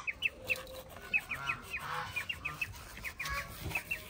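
Birds calling repeatedly in short high chirps, about three or four a second.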